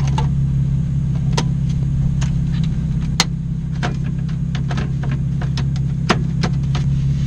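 Nissan 350Z's 3.5-litre V6 running with a steady low exhaust drone through an aftermarket Borla exhaust, with irregular sharp rattling clicks over it: an exhaust rattle, which the owner thinks comes from inside the muffler.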